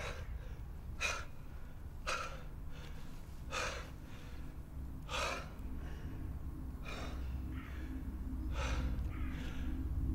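A man gasping for breath: heavy breaths about one every one to two seconds, coming a little further apart as he catches his breath, over a steady low rumble.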